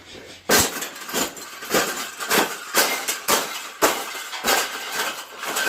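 Metal wire bird cage clanking and rattling as its sides are being bent and folded: a rapid series of sharp knocks, about two a second, each ringing briefly.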